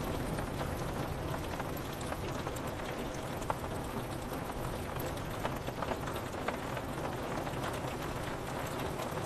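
Steady rain with scattered drops tapping on window glass.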